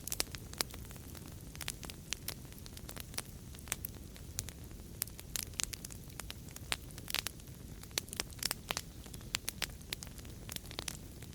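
Wood fire crackling: many sharp, irregular pops and snaps over a low, steady rumble of burning.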